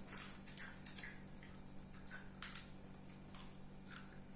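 Crunchy tortilla chips being chewed: a few faint, sharp crunches spread apart, over a low steady hum.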